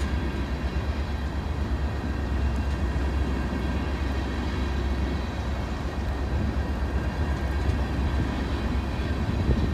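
Freight train of tank cars rolling past: a steady low rumble of steel wheels on the rails, with faint steady high tones above it.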